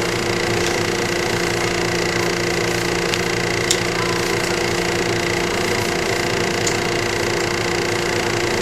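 Steady electrical hum inside a JR 115 series electric multiple unit car (KuMoHa 115-318). The car stands still with its onboard equipment running at an even pitch, and there are a few faint clicks, the clearest about three and a half seconds in.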